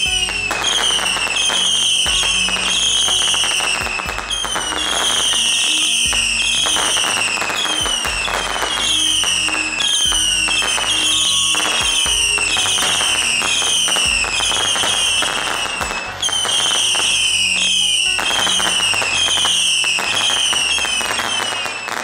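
Whistling fireworks shooting up from the ground: a long run of shrill whistles, each falling slightly in pitch, about two a second, over a steady hiss and crackle. The whistling pauses briefly now and then.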